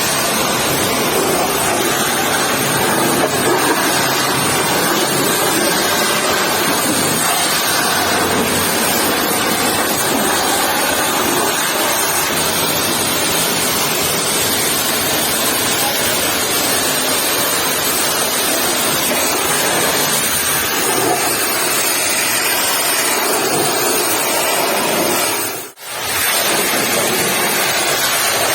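Pressure washer spraying a muddy truck: a steady, hissing rush of water. It cuts out for a moment near the end.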